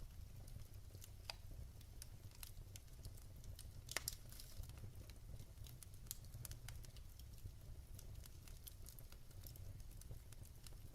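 Wood fire in a fireplace crackling quietly: scattered small snaps and pops over a low steady rumble, with one louder pop about four seconds in.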